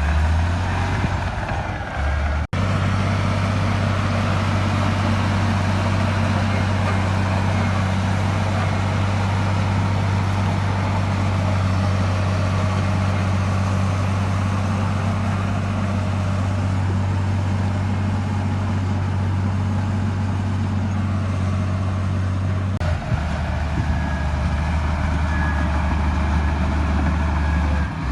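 Heavy diesel engine of earthmoving equipment running steadily. The engine note shifts abruptly about two and a half seconds in and again near the end.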